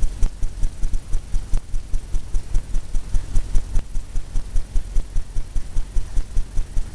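Fan brush tapping paint onto a stretched canvas: a steady run of quick, soft thumps, about five or six a second.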